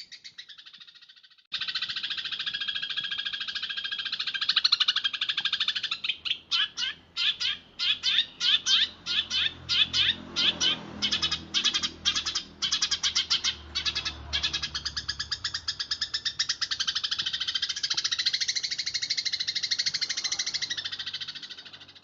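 Eurasian tree sparrow chattering in a fast, tightly packed roll of chirps. Through the middle the chatter breaks into quick separate chirps, several a second, then runs dense again near the end.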